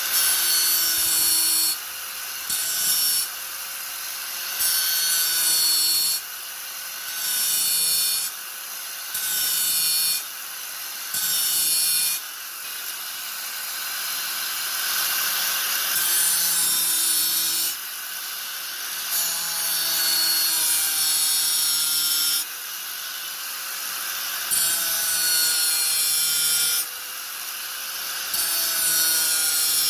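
Angle grinder running steadily and pressed into the work again and again, each pass a loud, gritty grinding of one to three seconds before it eases back to the free-spinning motor whine.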